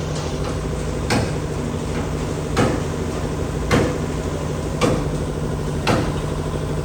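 Hammer blows on metal, about one a second, each ringing briefly, over a steady low machine hum.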